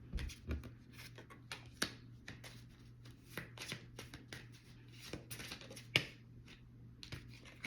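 Tarot cards being shuffled and handled: a faint, irregular run of soft card flicks and taps.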